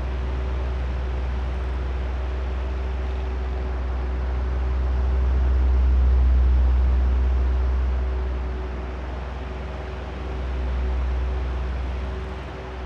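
Oscillating electric fan running, its motor giving a steady hum under a low rush of air. The air noise swells and fades slowly as the fan head sweeps toward and away, loudest about halfway through and dipping near the end.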